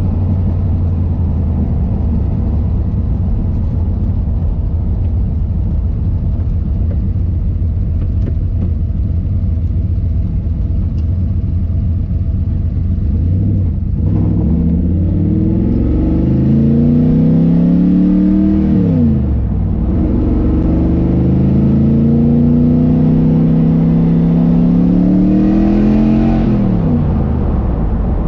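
Turbocharged LS6 V8 in a Porsche 914 heard from inside the cabin, first cruising with a steady low drone. About halfway through it pulls hard, its pitch climbing for several seconds, falling sharply at a gear change, then climbing again and dropping near the end with a brief hiss.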